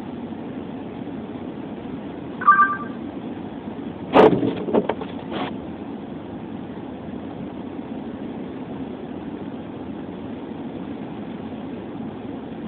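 Car engine idling, heard from inside the cabin as a steady low hum. A short two-tone beep comes about two and a half seconds in. A loud knock follows about four seconds in, with a few lighter clicks over the next second and a half.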